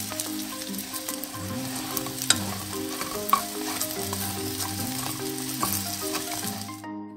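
Rice cake pieces sizzling and crackling in hot oil in a nonstick frying pan, with sharp pops now and then, while a wooden spatula stirs and turns them. The sizzling cuts off suddenly near the end.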